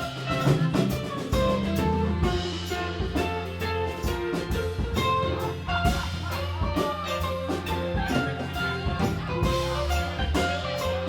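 Live band playing an instrumental passage, with a drum kit keeping a steady beat under sustained guitar and bass notes.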